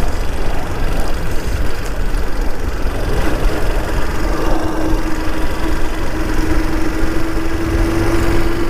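Motorcycle engine running steadily with a low rumble; a steady hum joins in about three seconds in.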